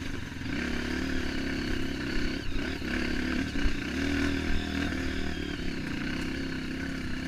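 Trail motorcycle engine running at a steady low speed, with a few brief knocks and clatter along the way.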